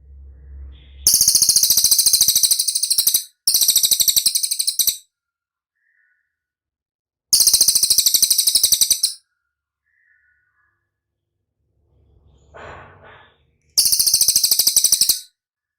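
Cililin bird singing: four loud, high-pitched rapid trills of one and a half to two seconds each, separated by short pauses.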